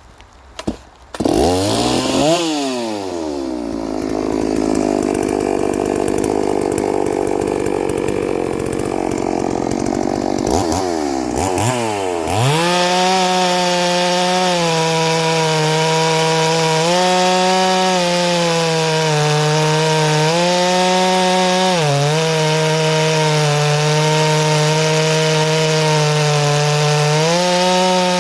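Ported chainsaw starting about a second in and blipping its throttle. From about twelve seconds it is held at full throttle cutting wood, the engine note dipping briefly several times as the chain takes load.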